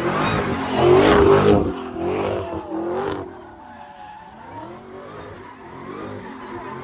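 Vehicle engine revving hard, loudest about a second in, then quieter revs rising and falling in pitch.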